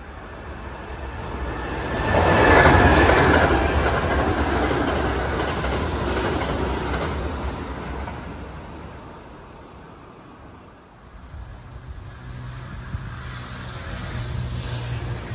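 Kintetsu Kyoto Line electric train passing close by on the track, loudest about two to three seconds in, then fading away over several seconds. Near the end a second train approaches with a steady low hum that grows louder.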